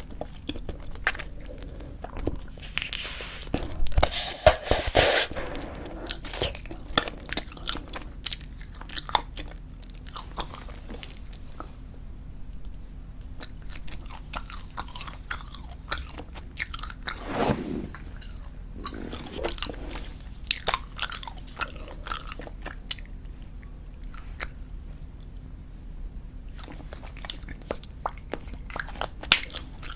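Squeeze-tube bubblegum chewed close to the microphone: wet mouth clicks and smacks throughout, with a louder stretch of noise and pops about three to five seconds in.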